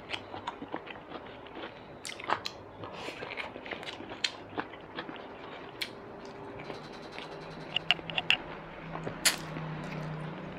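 Close-miked chewing and wet mouth sounds of a person eating braised tuna with chopsticks, with many small sharp clicks and a few louder ones near the end. A low steady hum comes in during the last few seconds.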